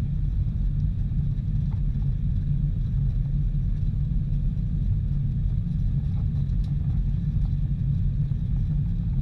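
Steady low rumble of a Boeing 747-400 airliner, its engine and airflow noise holding an even level with no sudden changes.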